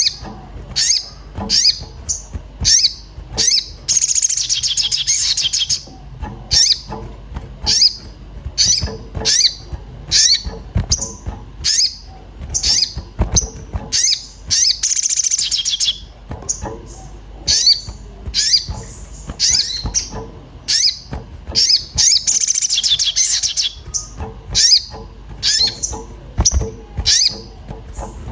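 An agitated crimson sunbird (sogon) making sharp, high 'cuit cuit' chirps, about one or two a second, broken three times by a denser, rapid twittering run. This is the excited calling used as a lure to get other sunbirds to answer.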